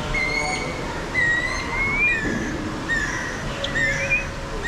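A bird calling: a run of clear whistled notes, about one a second, some held level and some sliding up or down in pitch, over a steady background rush.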